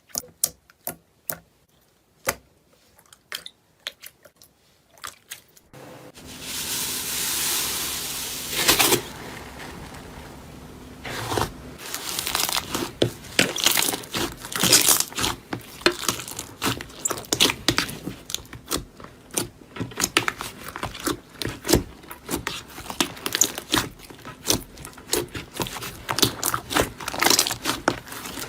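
A crunchy material being crushed: a few sparse light taps at first, then a scraping hiss from about six to nine seconds in, then dense, rapid crunching and crackling.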